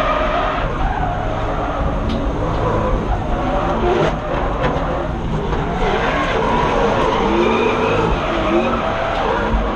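BMW M50B25 2.5-litre straight-six (non-VANOS) engine of a drift car, heard from inside the car, revved hard, its pitch climbing and falling again and again, with tyres skidding.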